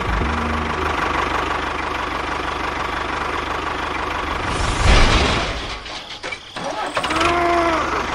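A small engine running steadily, then a loud whoosh about five seconds in as the engine sound drops away, and a short rising-and-falling tone near the end.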